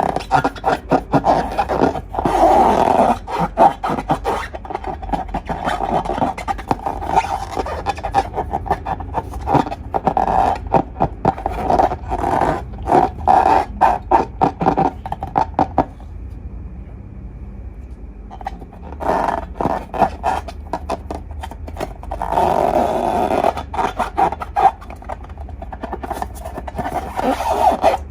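Slime squelching and crackling as it is squeezed and stretched by hand: a dense run of small wet clicks and pops, with a short lull about two-thirds of the way through.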